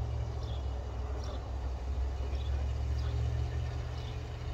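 Steady low rumble of a car's engine and tyres moving slowly on a snowy street.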